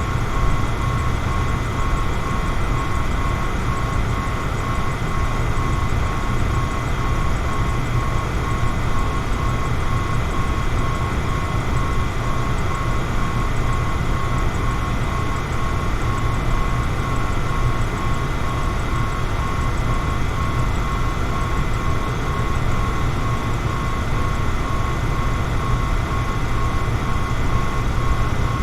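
Electric fan running steadily: an even rush of moving air with a low hum and a faint thin whine held at one pitch.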